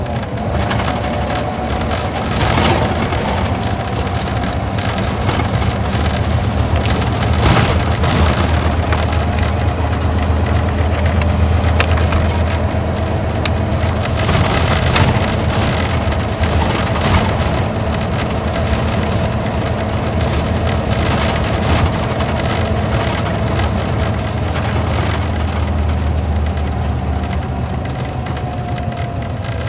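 Isuzu Gala coach's V-type diesel engine running under way, heard from inside the cabin as a steady drone with road noise and frequent rattling clicks. A whine falls in pitch near the end as the bus slows.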